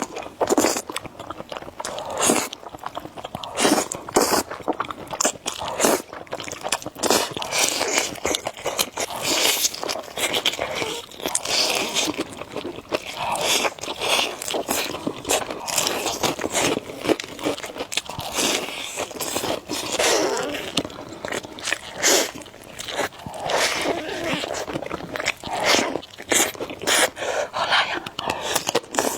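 Close-miked eating of spicy noodles with eggs: continual biting and chewing, with many short clicks and scrapes.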